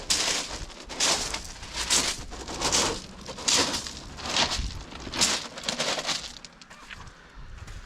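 Crunching footsteps of a person walking at an easy pace, about one step every 0.8 seconds, fading out about six seconds in.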